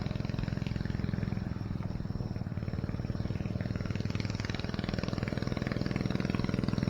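Antique farm tractor engine running steadily, a loud pulsing chug that grows a little louder near the end.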